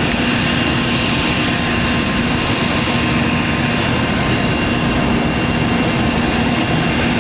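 UH-60 Black Hawk helicopter with its turbine engines running, a steady whine over an even rushing noise.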